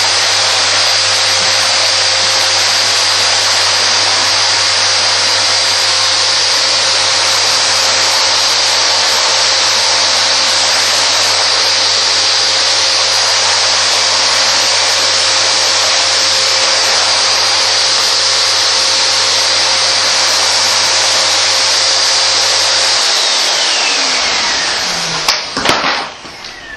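Vacuum cleaner motor running at a steady, loud pitch with a rushing airflow. Near the end it is switched off: the motor winds down with a falling whine, followed by a few sharp knocks.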